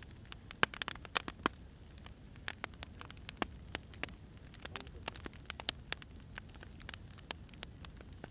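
Firewood burning, with irregular sharp crackles and pops over a low steady rumble.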